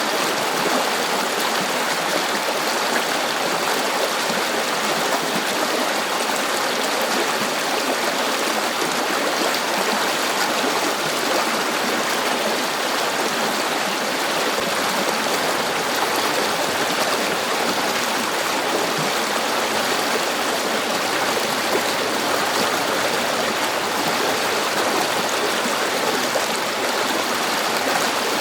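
A river flowing: a steady rush of running water, even throughout with no breaks.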